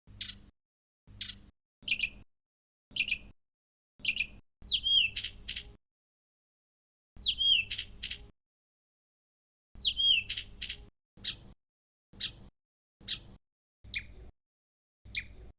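Blyth's reed warbler calls in short clips looped one after another with silent gaps between them: first sharp downslurred notes about once a second, then a longer phrase with a swooping whistled figure repeated three times, then more short sharp notes.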